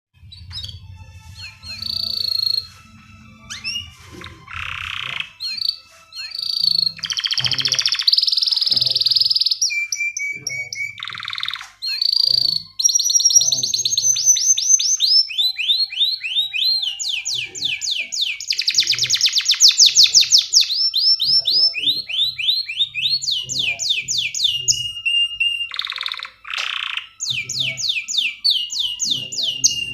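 Male domestic canary singing a long, loud song of rapid trills and fast repeated falling whistles, ending in a held note: the song a male in breeding condition uses to call a female.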